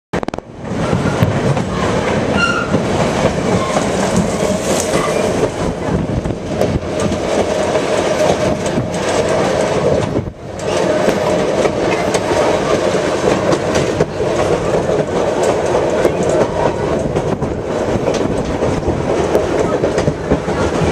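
White Pass & Yukon Route railway train running along the track with a steady, continuous rail noise. The noise dips briefly about ten seconds in.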